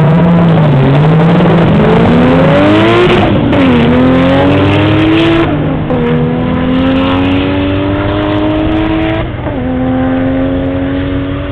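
Race car engine accelerating hard down a drag strip, its pitch climbing from a low start and dropping sharply at three gear changes.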